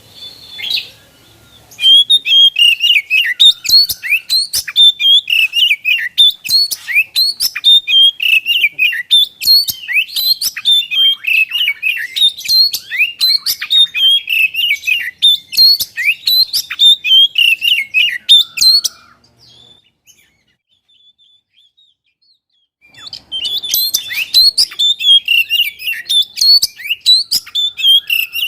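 Oriental magpie-robin (kacer) singing a fast, continuous song of rapid varied chirps and whistles, breaking off for about four seconds past the middle, then starting again.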